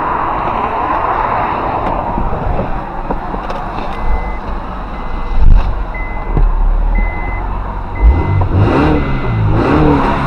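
A steady vehicle rumble, joined about four seconds in by a short high electronic beep repeating about once a second. Two loud thumps come through, and near the end a wavering engine-like hum sets in.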